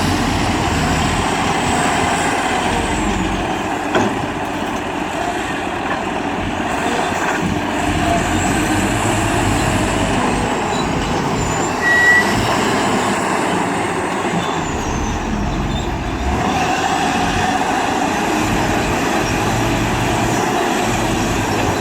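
Heavy diesel earthmoving machinery running steadily, a wheel loader working a dump truck, with a sharp knock about four seconds in and a brief high squeak around twelve seconds.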